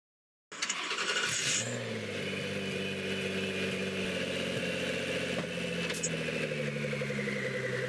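A car engine starting and running steadily, cutting in abruptly about half a second in, with a high whine above the engine note and a couple of short clicks later on.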